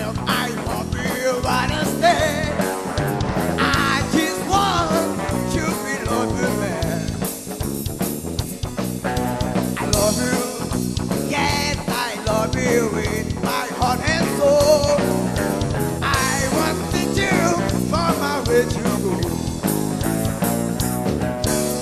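Blues band playing live, an instrumental passage with a guitar lead bending notes over the rhythm section.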